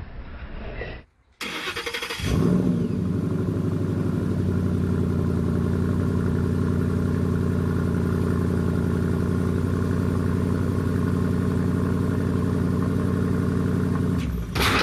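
A 2012–2013 Ford Mustang Boss 302's 5.0-litre V8 starting, catching with a burst, then idling steadily with a fast, even pulse. It swells louder briefly near the end.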